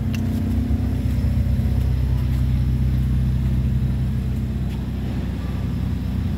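2006 Hyundai Elantra's 2.0-litre four-cylinder petrol engine running steadily during an engine test.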